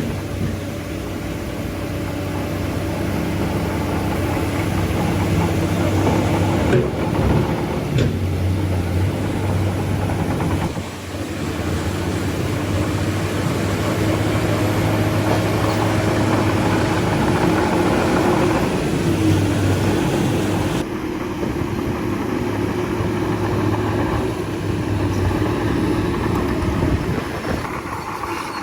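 Heavy diesel engine of an earthmoving machine running steadily, with a low engine note throughout. The sound dips briefly about eleven seconds in and changes abruptly twice, near seven and twenty-one seconds.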